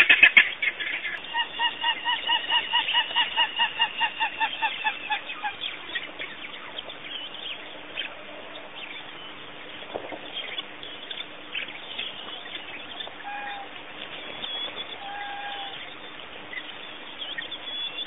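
Wild birds calling: a rapid run of repeated calls, about four a second, for a few seconds, then a few short single calls later on, over a faint steady hum.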